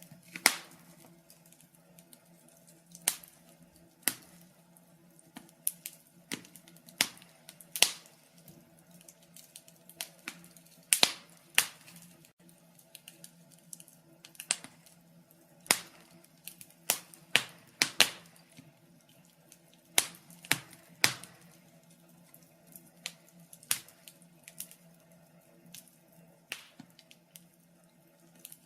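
Wood fire crackling: sharp, irregular pops and snaps, one or two a second at uneven spacing, over a faint steady low hum.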